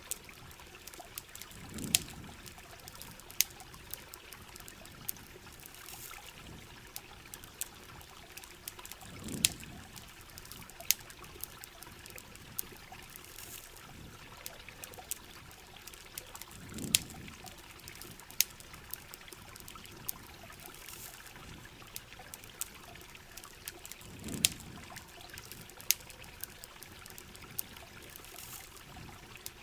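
Steady rain and running river water, with sharp crackles and pops from a wood campfire scattered throughout. A short low rumble comes back about every seven to eight seconds.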